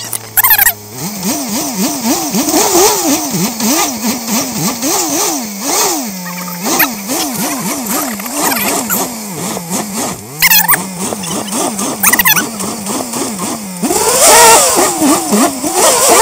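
Suzuki Samurai 4x4's engine revving up and down over and over as the driver works the throttle, straining to climb out of a mud hole. Several short bursts of rushing noise come through, the longest near the end.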